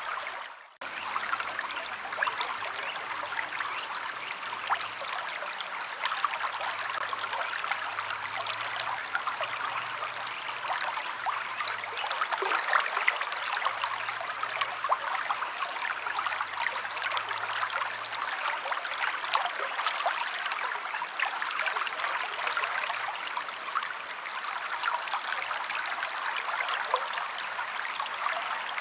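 River water flowing and trickling steadily, a dense splashing hiss. It cuts out for a moment just under a second in, then resumes.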